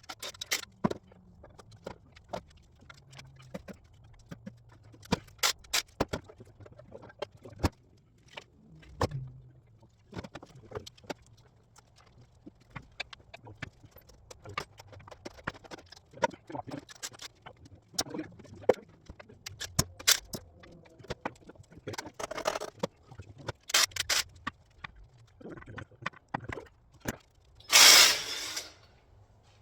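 Scattered clinks, knocks and scrapes of hand tools and metal parts at irregular intervals, typical of an engine teardown. Near the end comes a loud hiss about a second long.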